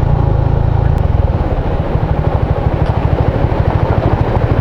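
Motorcycle engine running while riding, with road and wind noise; the low engine sound turns choppier about a second in.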